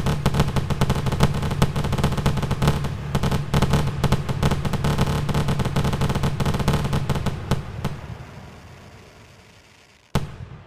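A dense, rapid barrage of fireworks bangs and crackles that starts suddenly, runs for about eight seconds and then fades away, followed by one more sharp bang near the end.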